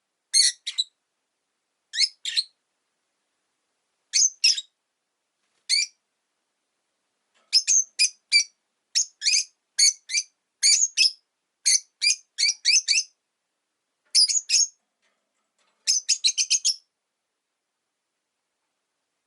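Rosy-faced lovebirds calling: sharp, high chirps in short clusters with pauses between, a few at first, then a busy run of calls through the middle and a quick rattling burst near the end.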